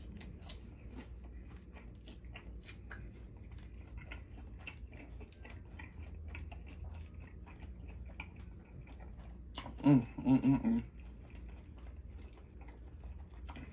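Close-up chewing of tomahawk steak, with many small mouth clicks. About ten seconds in there is a short voiced sound in three quick pulses.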